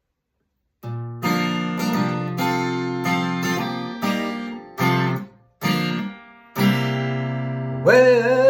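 Acoustic guitar strumming chords of a country song intro. It starts about a second in and stops briefly several times, and a singing voice comes in near the end.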